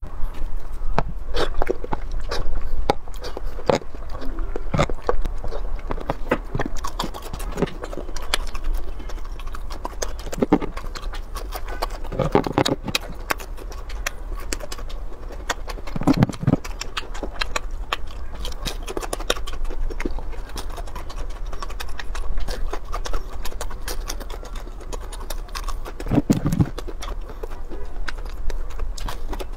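Close-miked eating: crunching and chewing of fried breaded food, with many sharp irregular crunches and wet mouth clicks and smacks. A steady low hum sits underneath.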